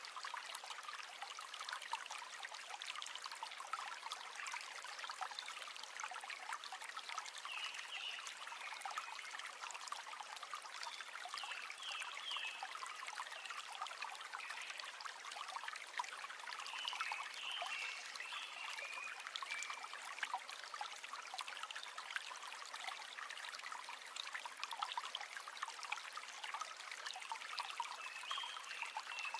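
River water flowing with a steady trickling, babbling rush.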